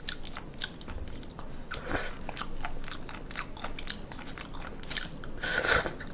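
A person chewing and biting raw seafood: a quick, irregular run of small mouth clicks, with a louder noisy moment about five and a half seconds in.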